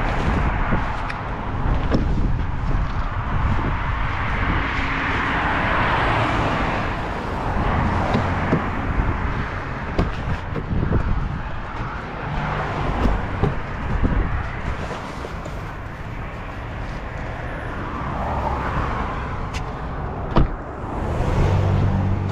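Motor vehicle engine running with a steady low hum under road and wind noise that swells and fades, with a few short clicks, the sharpest near the end.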